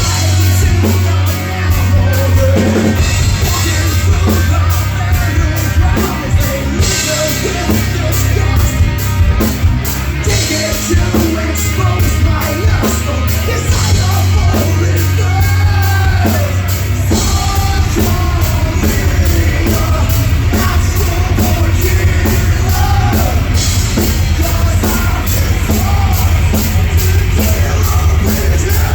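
Live heavy metal band playing loudly: drum kit, bass and electric guitars.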